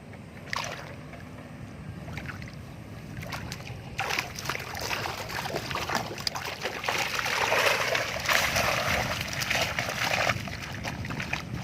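Water splashing and sloshing, starting about four seconds in and heaviest a few seconds later before easing off.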